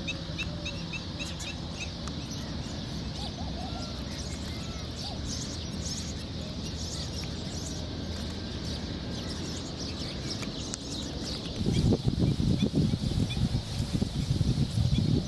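Wild birds chirping and calling over a steady outdoor background, opening with a quick run of short high chirps. About three-quarters of the way in, a louder, rough low rumbling noise starts up.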